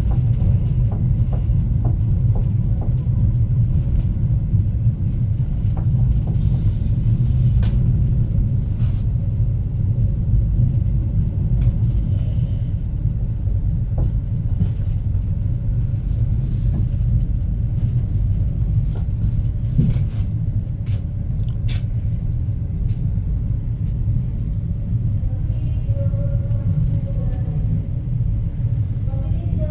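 Steady low rumble of the Argo Bromo Anggrek express passenger train running, heard from aboard, with scattered light clicks and knocks.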